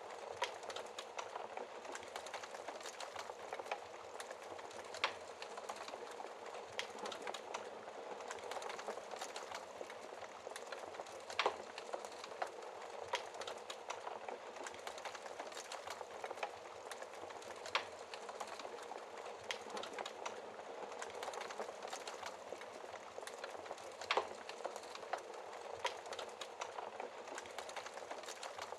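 Wood fire in a fireplace crackling steadily, dense small crackles over a soft hiss of flames, with a few louder sharp pops spaced several seconds apart.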